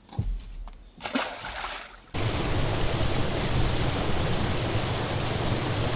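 Steady rush of a small freshwater waterfall of rainwater, starting suddenly about two seconds in. Before it, a soft low thump and a brief splash-like noise.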